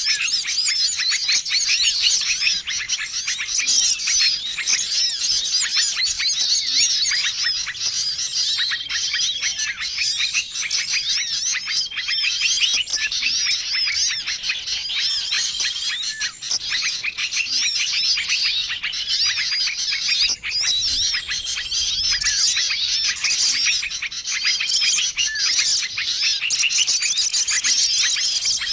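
A dense, noisy chorus of many small songbirds chirping and twittering without a break, a recorded lure call for trapping wild small birds. A short, steady whistled note recurs every few seconds above the din.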